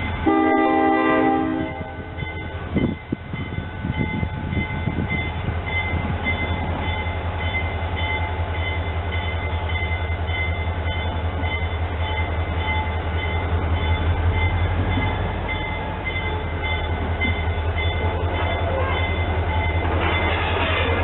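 A train horn sounds one chord blast about a second and a half long, then a train runs on with a steady low rumble.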